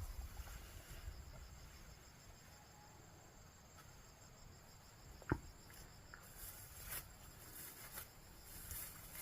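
Faint, high, fast-pulsing insect trill over a low background hiss, broken once by a single sharp knock about five seconds in.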